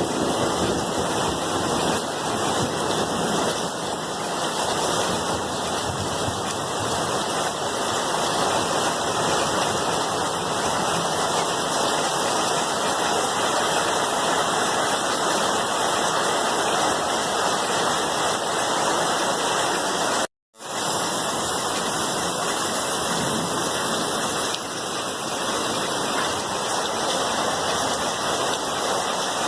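Steady rain with an even, continuous hiss. The sound cuts out completely for a fraction of a second about two-thirds of the way through, then resumes, as at a splice or loop join in the recording.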